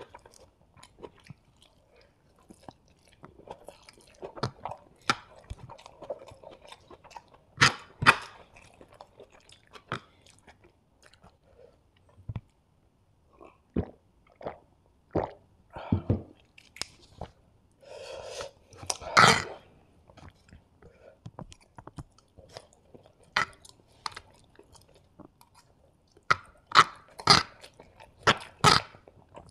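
Close-miked eating sounds: chewing and biting of hakka noodles and chilli chicken, in irregular short bursts with quieter gaps between mouthfuls.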